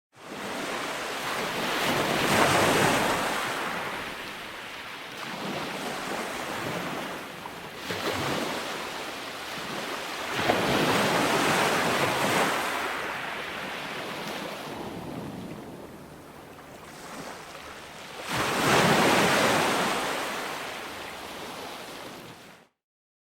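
Calm ocean waves breaking and washing up on a beach, rising and falling in slow surges, about four swells, the strongest about two and nineteen seconds in. The sound cuts off abruptly near the end.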